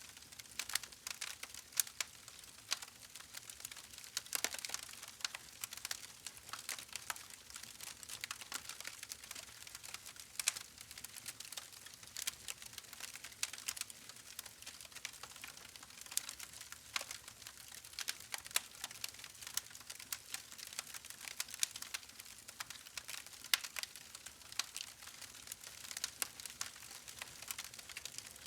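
Campfire burning with dense, irregular crackles and pops over a soft hiss of flame.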